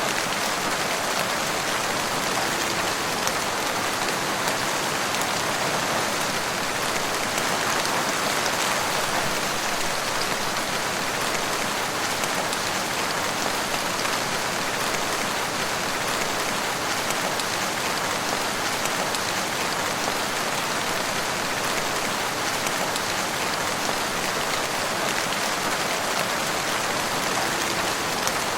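Steady rain falling in a forest, an even patter of drops with no breaks.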